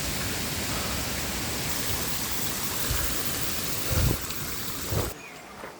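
Steady rushing of falling water, with a few low thumps, cutting off abruptly about five seconds in.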